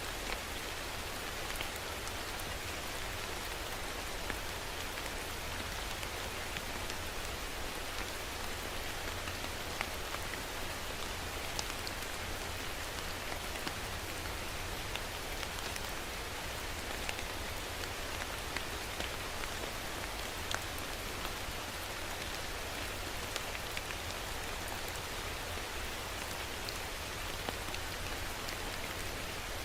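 Steady rain falling, with many small drops ticking on a hard surface over an even hiss and a low rumble underneath.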